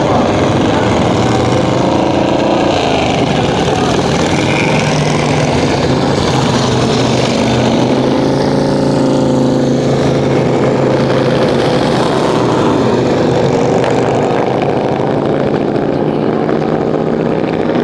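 Motorcycle engine running steadily, its pitch shifting up and down around the middle.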